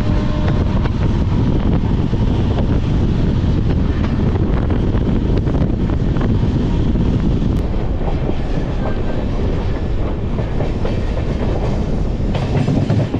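Shaheed Express passenger train running at speed: the steady rumble of the moving coach with the clack of its wheels over the rails, loud and unbroken throughout.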